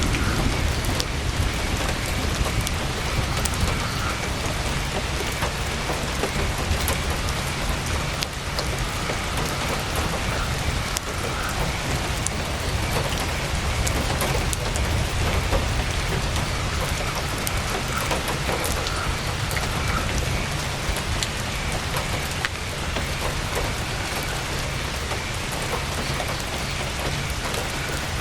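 Heavy rain falling steadily on a tent's canvas, an even hiss with scattered sharp ticks of drops, over a constant low rumble.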